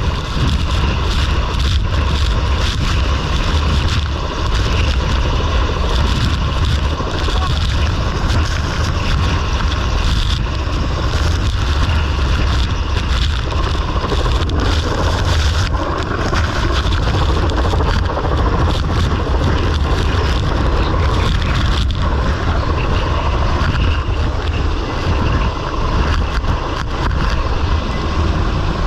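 Loud, steady engine drone with a heavy low rumble and a constant whine, mixed with wind rushing over the microphone.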